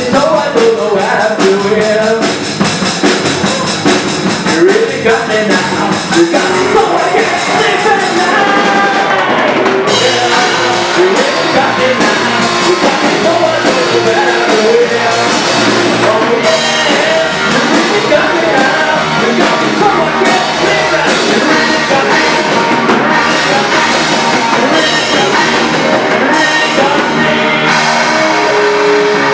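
Rock band playing a song with a drum kit and some singing.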